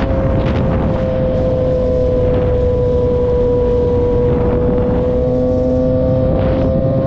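Car engine noise: one engine held at a steady rev, its note almost unchanging, over a deep low rumble.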